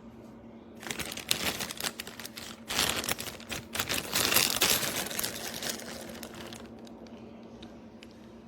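Rustling and crinkling handling noise with sharp crackles, starting about a second in, loudest around the middle and fading off, over a steady low hum.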